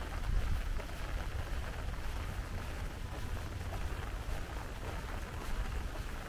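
Steady rain falling, with a constant deep rumble underneath.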